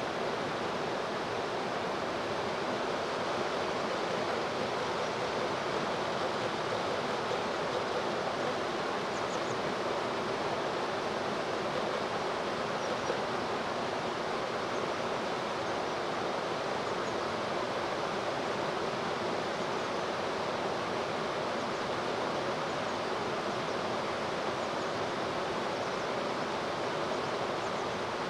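Steady rushing of flowing river water, an even wash of noise with no change in level.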